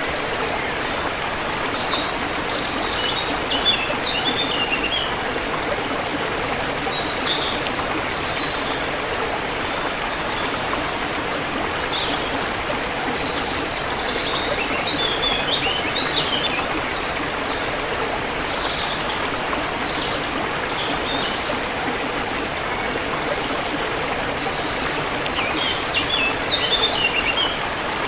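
Forest stream flowing with a steady rush of water, while small birds chirp and twitter in short bursts of quick high notes several times.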